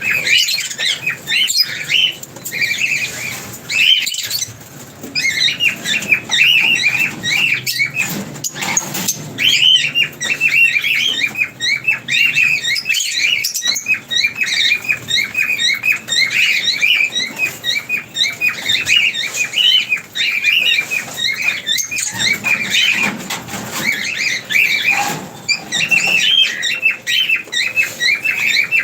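Many small pet parrots chattering together: a dense, continuous stream of rapid, high-pitched chirps.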